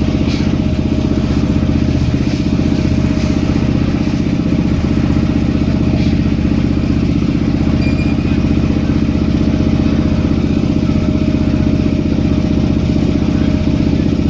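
Boat engine running steadily at constant speed, a loud, even, low drone.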